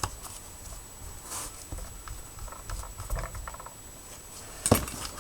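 Light clicks and rattling of plastic parts being handled as a corded electric screwdriver's housing is put back together, with a sharper click about four and a half seconds in.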